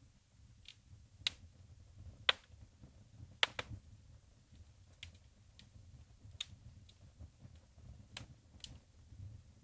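Wood fire in a fireplace crackling: burning logs giving off sharp, irregular pops and snaps, about ten in all, with the loudest around two and three and a half seconds in, over a faint low rumble of the flames.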